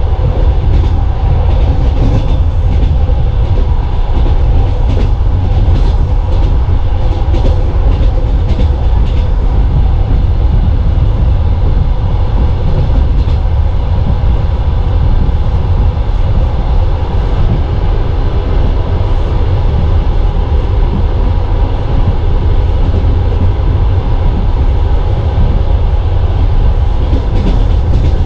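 Steady rumble of a moving passenger train's wheels on the rails, heard from inside the coach, with scattered sharp rail clicks in the first ten seconds or so. In the last moment an oncoming passenger train begins to pass close alongside.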